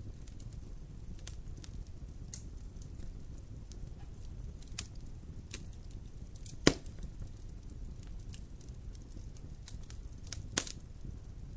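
Wood fire in a fireplace crackling: scattered small pops over a low steady rumble, with two sharp louder snaps, one about six and a half seconds in and one near the end.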